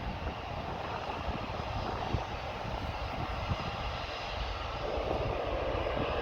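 Jet airliner engines at takeoff power, a steady rumble with crackle that grows louder about five seconds in.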